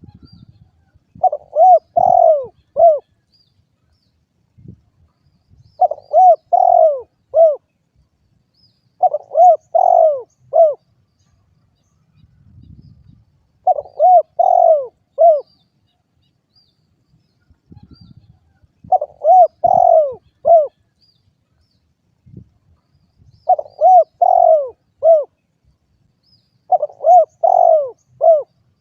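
Spotted dove cooing: a short phrase of four or five coos, repeated seven times, about every four to five seconds.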